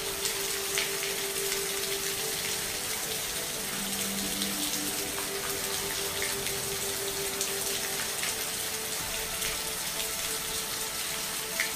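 Steady rain, an even hiss with scattered drops ticking. A faint low steady tone sits under it for the first half.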